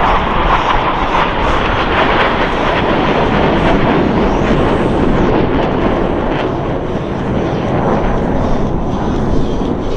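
Jet noise from Blue Angels Boeing F/A-18E/F Super Hornets flying their demonstration: a loud, steady rush of turbofan engines with no letup, dipping slightly a few seconds before the end.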